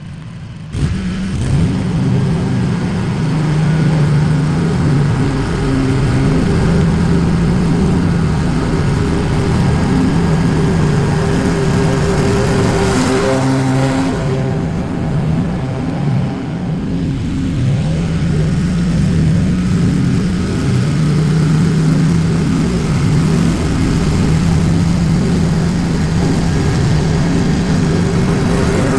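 Small gasoline engine of power lawn equipment running steadily at working speed, its pitch wavering slightly. It comes in abruptly about a second in.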